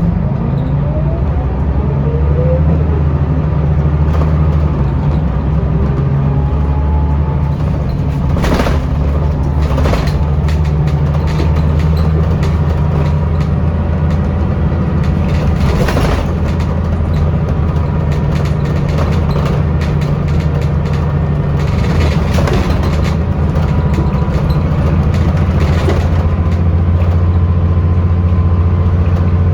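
Scania L94UB city bus on the move, its engine and ZF automatic gearbox giving a steady low drone, with a rising whine in the first few seconds as it gathers speed. Short knocks and rattles from the bus body come every few seconds.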